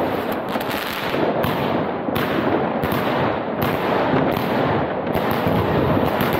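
Many fireworks going off at once: a dense, unbroken crackle of firecracker bangs and rocket bursts, with no gaps between them.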